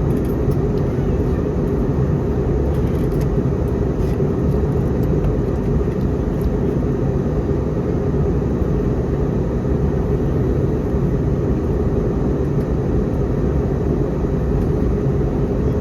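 Steady, low drone of cabin noise inside an Airbus A321neo, the engines and airflow heard from a passenger seat.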